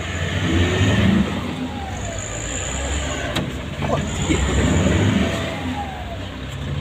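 Vehicle engine running hard under load, its low rumble swelling and easing, as a Hilux 4x4 strains to tow a bogged-down truck loaded with stone.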